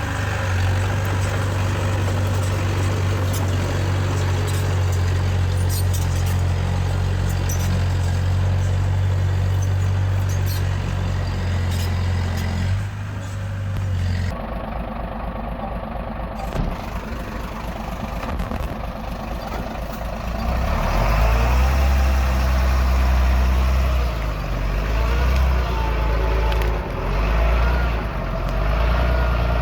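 Heavy-machinery diesel engine running: a steady drone for about the first half, then after an abrupt cut a deeper engine working, its level rising and falling with the load.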